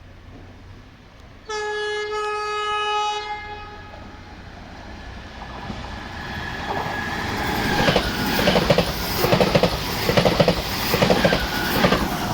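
Regional electric train sounding its horn once for about two seconds, then drawing near and running past, the rumble growing with a regular clatter of wheels over the track.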